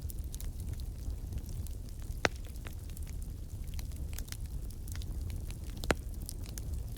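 Wood fire crackling in a fireplace: a steady low rumble of flames with many small crackles and two louder pops, about two seconds in and near six seconds.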